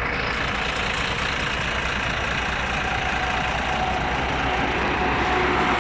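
Heavy truck engine running steadily, with a low regular pulse beneath it.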